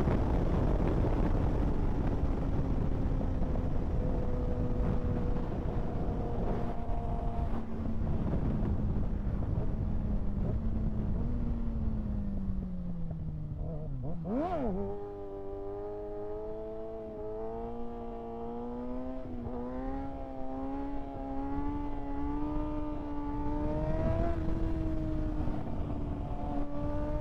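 Kawasaki ZX-6R 636 inline-four engine heard while riding, under heavy wind noise, its pitch falling steadily as the bike slows for the first half. About halfway a quick throttle blip rises and drops, then the engine pulls steadily with less wind, its pitch slowly climbing.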